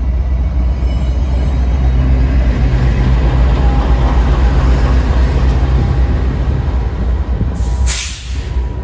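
VIA Rail passenger train rolling past close by, a steady rumble of wheels on rail with the drone of a GE P42DC diesel locomotive's engine as the trailing unit goes by. A short loud hiss comes near the end.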